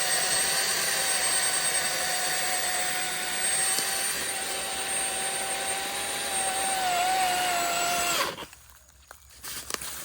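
Milwaukee M18 FUEL 20-inch battery chainsaw running with a steady whine, dipping briefly in pitch, then stopping suddenly about eight seconds in. A few faint clicks follow.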